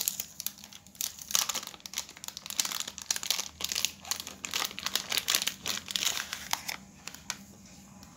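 Power bank's packaging pouch crinkling and rustling as it is opened by hand: a quick, irregular run of crackles that dies away about seven seconds in.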